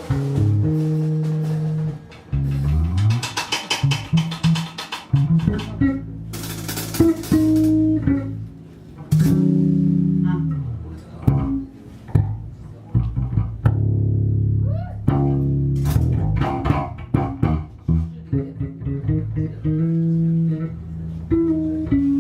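Instrumental band music with bass guitar and guitar. The bass holds low notes that change pitch every second or so, under scattered drum hits.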